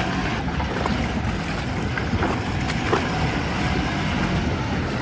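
Tractor engine running under load as it tows a stuck vehicle along on a punctured front tyre, under a steady rushing noise.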